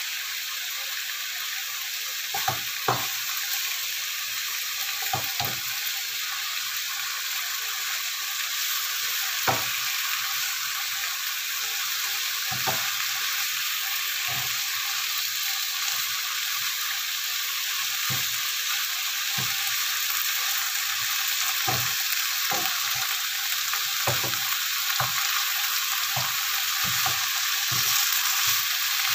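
Beef, eggplant and lettuce sizzling in olive oil in a frying pan over a gas flame turned up a little, the sizzle growing slightly louder as it goes. A wooden spatula stirs through the food and gives scattered knocks and scrapes against the pan.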